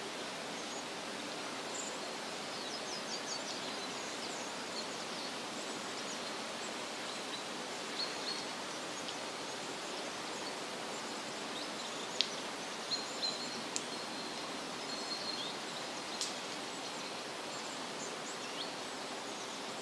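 Forest ambience: a steady rushing background noise with small birds chirping over it in short, scattered high calls, including a quick run of ticking notes a few seconds in and sharper single chirps around the middle.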